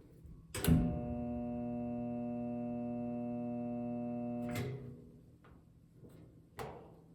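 A loud, steady electrical buzz from a Frigidaire washing machine. It starts with a click a little under a second in, holds one unchanging pitch for about four seconds, then stops. The man working on the machine fears he may have just broken it.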